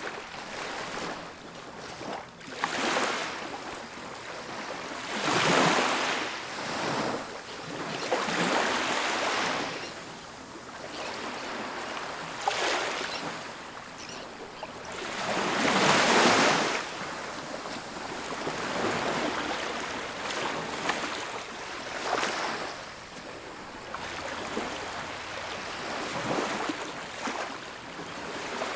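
Ocean waves breaking on a beach: a steady wash of surf that swells with each breaking wave every few seconds, the biggest about halfway through.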